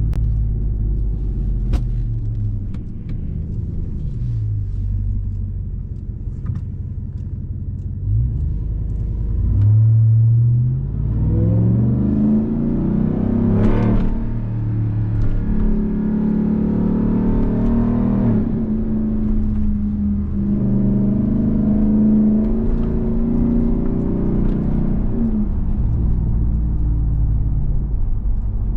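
2021 Ram 1500 TRX's supercharged 6.2-litre Hemi V8 on the move: the engine eases off, then about eight seconds in it accelerates hard, its pitch climbing for several seconds, before holding a steady cruise. Near the end it drops back, then picks up again.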